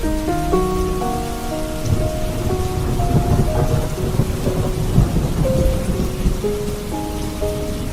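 Steady rain with a rolling rumble of thunder that swells in the middle and fades near the end, under soft, slow music of held notes.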